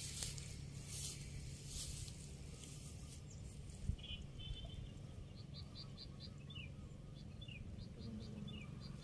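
Small bird calling in the background from about four seconds in, with quick runs of three or four high chirps alternating with short falling notes. A steady low hum sits underneath, and a single sharp knock comes just before the calls start.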